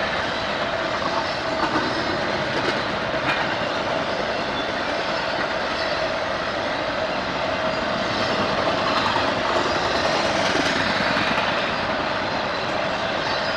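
A train rolling past on the tracks: a steady, dense rolling noise with a faint constant tone and a few brief clicks.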